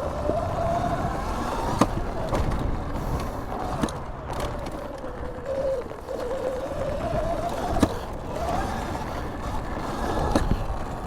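Sur-Ron electric dirt bike riding on a dirt track: the motor's whine rises and falls in pitch with the throttle over rumbling tyre and wind noise, with a few sharp knocks.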